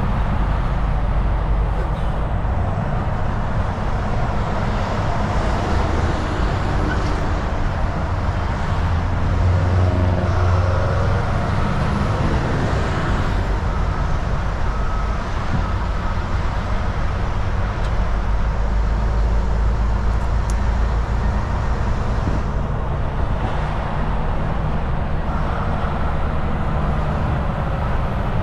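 Volvo VNL 760 semi truck cruising on the highway: a steady low diesel engine drone under continuous tyre and road noise.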